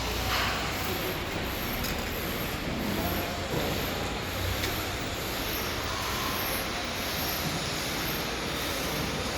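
Steady mechanical rumble and hiss of machinery running, even throughout with a low hum underneath and no distinct knocks or rhythm.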